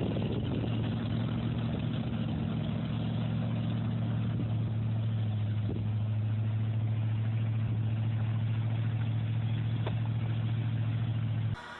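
A vehicle engine running steadily at an even speed, with no change in pitch. Near the end it cuts abruptly to a different, quieter recording.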